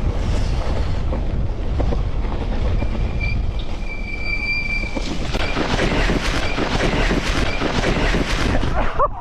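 Electric mountain bike running fast downhill on a rough track: wind buffets the helmet camera's microphone over the rumble of the tyres. A high squeal of the brakes sounds for about two seconds in the middle, then the bike clatters and rattles over stones and ruts until the noise drops off sharply near the end.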